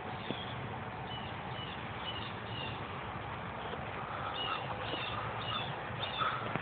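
Birds chirping: a run of short, high, falling notes repeated about twice a second, pausing briefly in the middle, over a steady background hiss.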